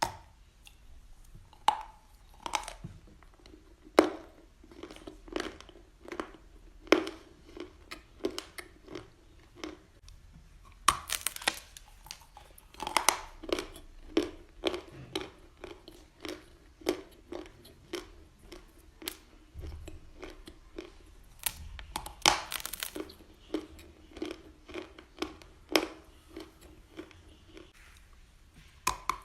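Crunchy brown clay being bitten and chewed close to the microphone: a few loud, sharp crunches of bites, each followed by a run of chewing at about two chews a second.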